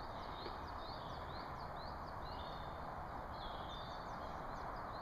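Woodland birds singing, a run of short high chirps repeated every few tenths of a second with a brief trill in the middle, over a steady background hiss.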